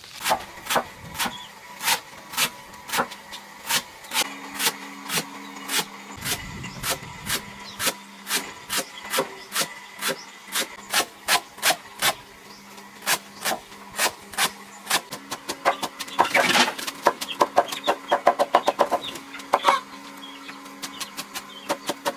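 Knife chopping through banana stem on a wooden surface: a steady run of sharp strokes about two a second, quicker and louder for a few seconds past the middle.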